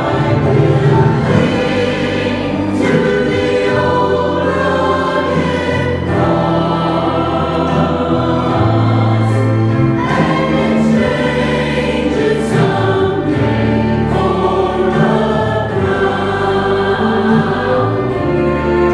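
Adult church choir singing a sacred anthem in sustained chords.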